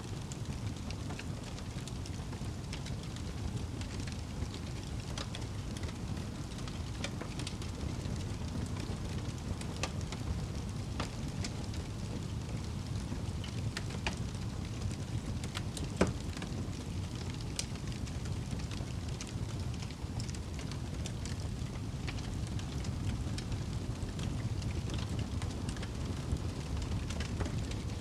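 Wood fire crackling, with a steady low rumble under scattered small pops; one sharper, louder pop about halfway through.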